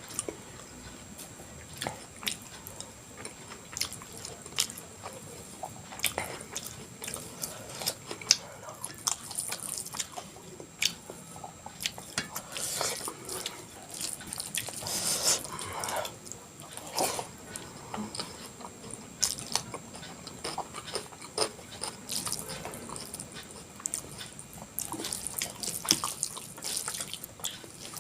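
Close-miked eating sounds: wet chewing and lip smacks of soft food, as irregular sticky clicks several times a second.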